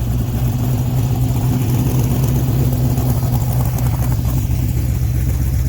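A vehicle engine idling steadily, a loud, even low drone that does not change.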